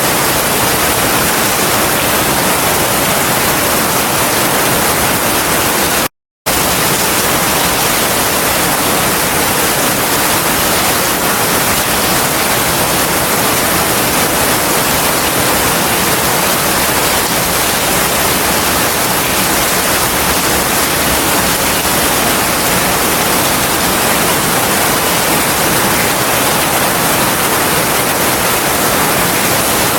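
Heavy rain, a steady dense hiss, cutting out completely for a split second about six seconds in.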